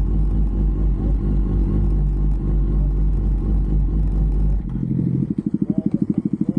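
Motorcycle engine running steadily, then about four and a half seconds in the sound changes to a fast, even pulsing beat of an engine at idle.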